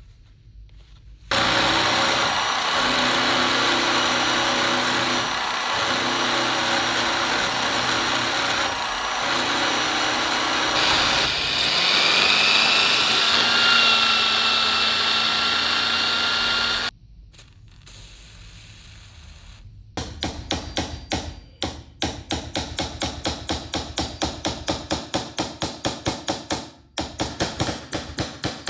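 A power tool runs steadily for about fifteen seconds, its pitch shifting partway through, then cuts off. After a short pause comes rapid hammering, about three or four blows a second.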